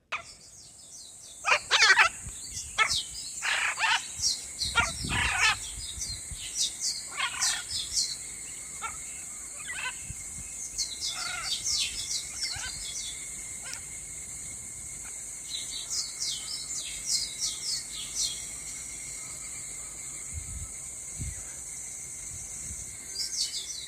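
Wild birds chirping and trilling, many short calls, busiest in the first few seconds and sparser later. A steady high-pitched drone runs underneath throughout.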